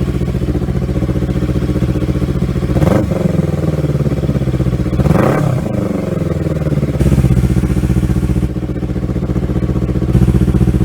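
Kawasaki Versys X300's 296 cc parallel-twin engine idling through an aftermarket slip-on muffler with its baffle removed, blipped up and back down twice, about 3 and 5 seconds in. It sounds loud.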